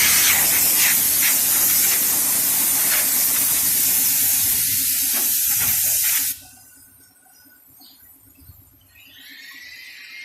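A pressurised spray nozzle hissing loudly and steadily, as air or mist is sprayed over an engine bay, stopping abruptly about six seconds in. Quieter background music with chiming tones comes in near the end.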